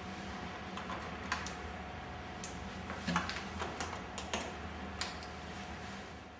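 Irregular light clicks and taps of injection-moulded plastic parts being fitted to a metal display-stand frame and pressed home with snap plugs, over a steady low hum.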